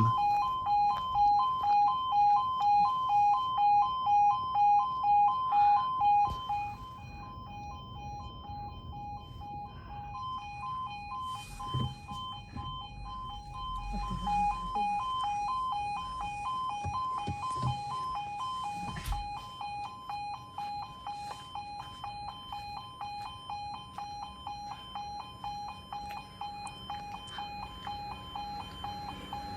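E2S electronic level-crossing alarm at an automatic half-barrier crossing, sounding its pulsing warning tone about twice a second. About six seconds in it drops much quieter and keeps pulsing.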